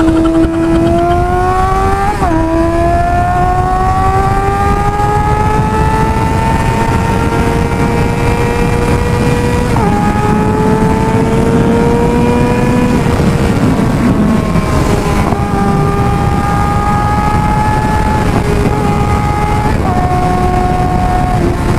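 Suzuki GSX-R600 sport bike's inline-four engine pulling hard at speed, its pitch climbing slowly and then dropping back at each of several upshifts. Heavy wind rush on the microphone runs under it.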